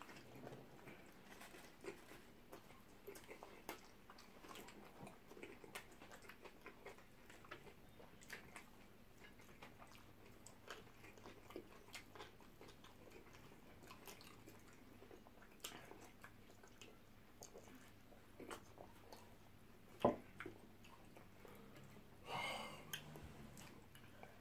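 Faint chewing and soft mouth clicks of people eating shawarma wraps, with a sharper click about twenty seconds in and a short pitched sound near the end.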